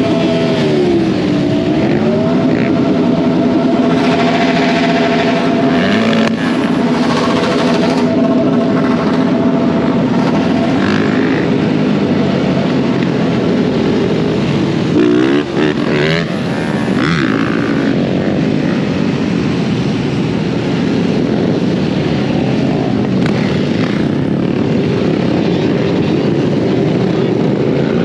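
Off-road motorcycle running under way, its pitch dipping and rising with the throttle, over a steady rush of wind and tyre noise.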